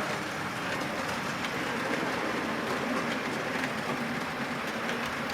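Model J94 tank locomotive running steadily on the layout's track, hauling tank wagons: a continuous whirr of the small electric motor and rumble of wheels on the rails.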